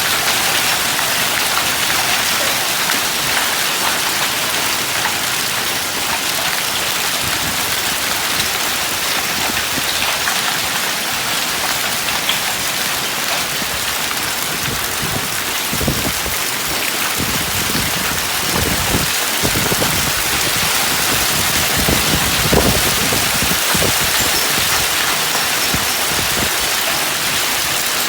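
Heavy rain with hail pelting down on surfaces, a dense steady hiss, with a few dull low thumps in the second half.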